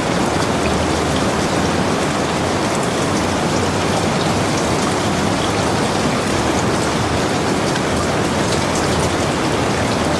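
Heavy rain falling steadily on a log cabin, a dense even hiss with the close patter of individual drops.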